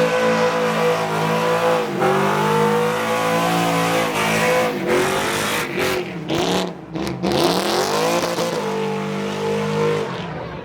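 A vehicle's engine held at high revs during a burnout, tyres spinning. The revs sag and climb again about two seconds in and again a little past the middle, then fall away near the end.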